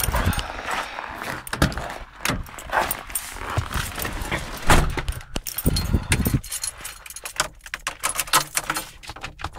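Jangling of keys and irregular clicks and knocks of handling, with a few dull thumps.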